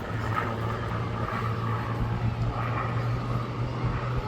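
Supermarine Spitfire's Rolls-Royce Merlin V12 engine droning steadily overhead during its flying display, holding an even low pitch.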